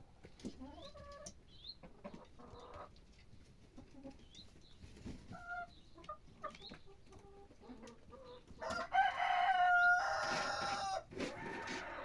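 Faint short bird chirps, then a rooster crows loudly for about two seconds, starting about nine seconds in.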